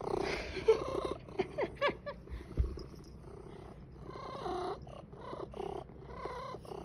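A Ragamuffin and a Munchkin cat eagerly eating a Churu lickable treat: short excited cat calls about a second apart, with small sharp clicks from licking and smacking, and one dull thump partway through.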